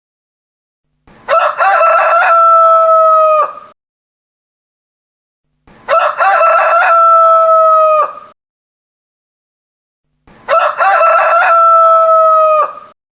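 Rooster crowing three times, about four and a half seconds apart. Each crow has a broken, stuttering opening and ends in a long held note that drops off at the end.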